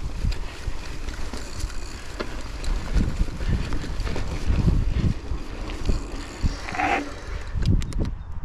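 Wind buffeting the microphone of a chest-mounted action camera on a moving mountain bike, an uneven low rumble with tyre and trail noise underneath. A brief squeak sounds about seven seconds in, followed by a few sharp clicks.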